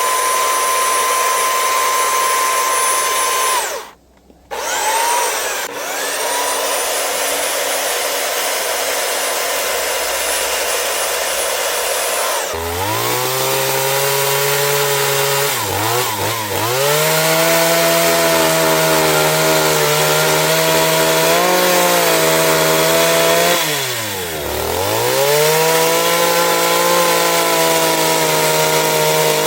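Power tools working wood. First comes a high-pitched motor whine that cuts out about four seconds in and spins back up. Then, from a little under halfway, a lower-pitched motor runs whose speed sags and recovers several times, as if under load or throttle changes.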